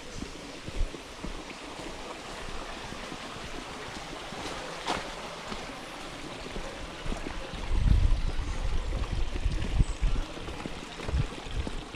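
Footsteps of people walking on a trail over a steady rushing background noise, with heavier low thumps in the last few seconds.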